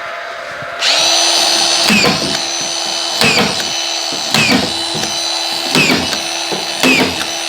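Power screwdriver whining steadily from about a second in, bogging down briefly about every second as it drives five screws in a row into the plasterboard ceiling sheet.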